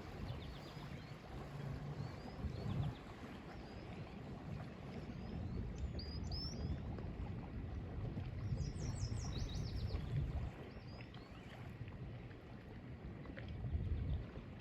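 Lake water lapping at the shore, a low uneven wash that swells and ebbs, with small birds chirping over it: a short high call about six seconds in and a quick run of high descending notes about nine seconds in.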